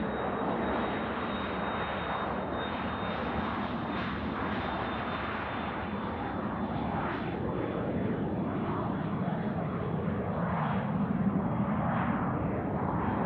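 An airliner's engines running at takeoff power on the takeoff roll: a steady rush with a thin high whine that drifts slightly lower.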